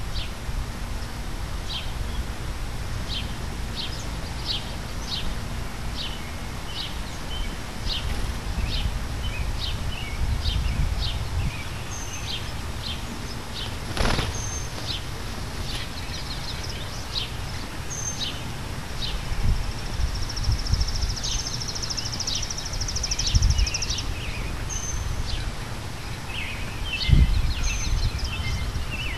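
Small backyard birds calling: a steady run of short, high chip notes about two a second, with a few higher whistles and a short trill about two-thirds of the way through.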